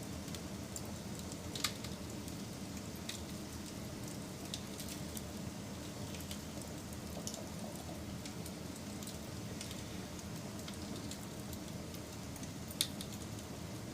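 Wood fire burning: a steady low rush with scattered small crackles and two sharper pops, one a couple of seconds in and one near the end.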